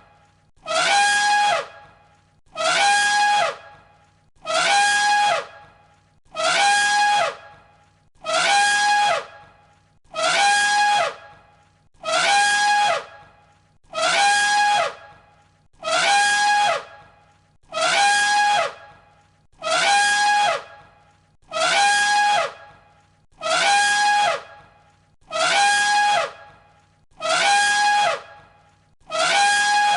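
An elephant trumpeting: the same loud, brassy call, about a second long and dropping in pitch at its end, repeated evenly about every two seconds as a loop.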